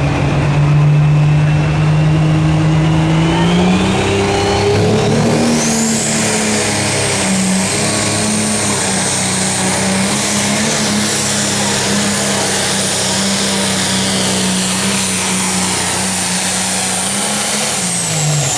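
Pro Stock pulling tractor's turbocharged diesel engine running at full power down the track. Its pitch climbs about four seconds in, a high turbo whine rises and holds, and both fall away near the end as the run finishes.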